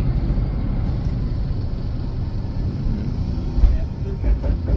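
Low, steady rumble of a passenger bus heard from inside the cabin, with a few dull thumps near the end.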